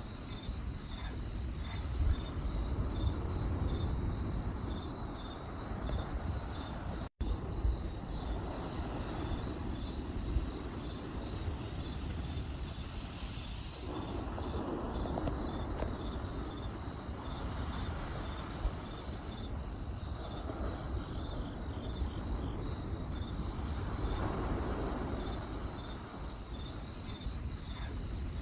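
Crickets chirping in a steady high pulsing trill over a campfire crackling, with a few sharp pops. The sound cuts out for an instant about seven seconds in.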